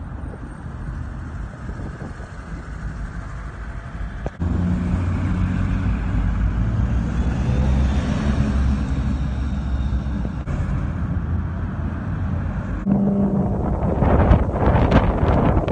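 Wind buffeting the microphone: a low rumbling noise that gets louder about four seconds in, with harsher crackling gusts near the end.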